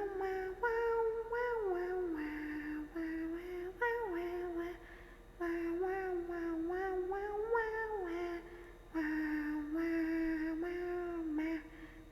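A young woman's voice humming and singing a wordless tune while drinking, in held, sliding notes broken into short phrases.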